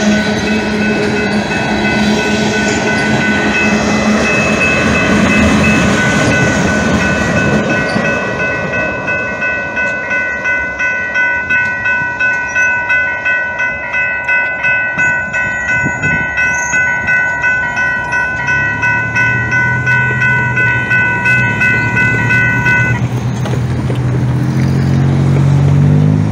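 Freight train of tank cars rolling past over a level crossing, wheels clattering, while the crossing's warning bell rings in a steady beat. The train noise fades after about eight seconds. The bell keeps ringing until a few seconds before the end, when it stops and a vehicle engine rises in pitch as traffic pulls away.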